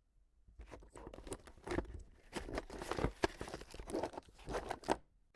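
Irregular rustling and crinkling noises, like things being handled or rummaged through, starting about half a second in and cutting off abruptly near the end.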